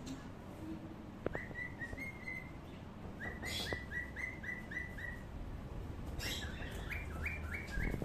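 A bird chirping in three quick runs of short repeated high notes, about four notes a second.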